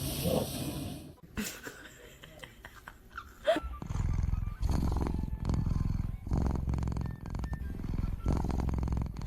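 Domestic cat purring loudly and steadily, the purr swelling and easing with each breath in about one-second cycles, from about four seconds in. Just before it comes a brief squeak.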